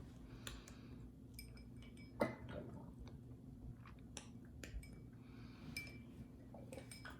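Faint, scattered light clicks and clinks of a clear glass and plastic droppers being handled, a few ringing briefly like glass, with one louder knock about two seconds in.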